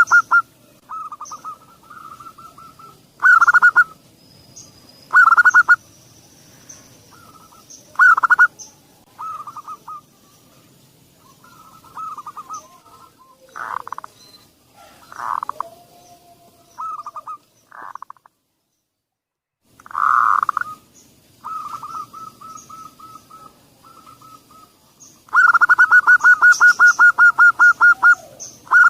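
Zebra doves (perkutut) cooing in bouts of quick staccato notes, some loud and close, others fainter, as a lure to set a silent dove singing. Near the end one bird gives a long run of about five coos a second.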